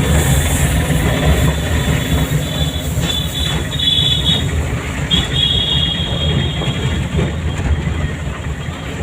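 Car driving along with a steady low road and engine rumble. A thin high squeal comes in twice near the middle.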